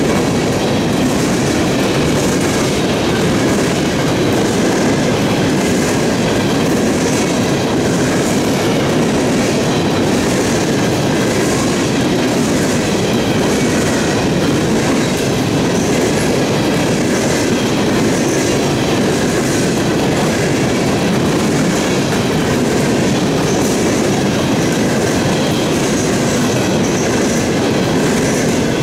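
A coal train's freight cars rolling past close by: a steady, loud rumble of steel wheels on rail, with a repeating clatter of wheels over rail joints about once a second.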